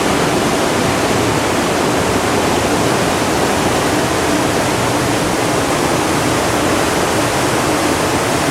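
A loud, steady rushing noise with no breaks.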